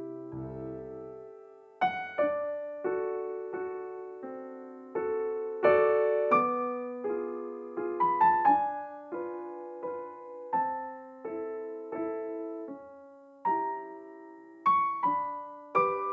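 Background music: a gentle piano piece, single notes and chords struck and left to fade.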